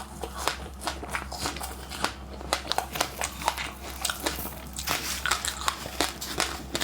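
Biting and chewing crunchy passionfruit and sesame seeds, a quick irregular run of sharp crunches.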